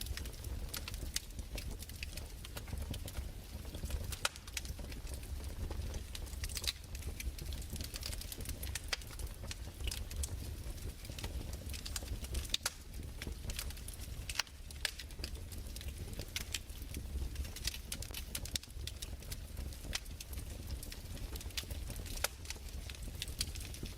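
Crackling fireplace: irregular sharp pops and crackles over a steady low rumble.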